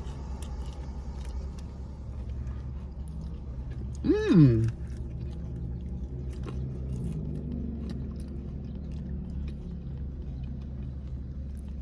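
Chewing and biting into crunchy fried okra, with small crackling clicks, and one loud pitched 'mmm'-like vocal sound that rises and falls about four seconds in. Under it runs a steady low rumble.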